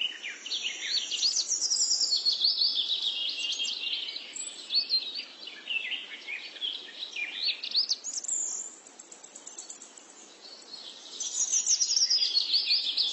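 Bird singing in a fast, high-pitched twittering run of chirps. It falls quiet for a couple of seconds past the middle and then starts up again.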